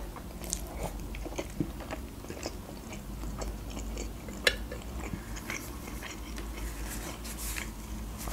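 Close-miked chewing of soft boiled dough squares (Azerbaijani khinkal), with many small wet mouth clicks and one sharper click about four and a half seconds in. Near the end, a paper napkin rustles against the mouth.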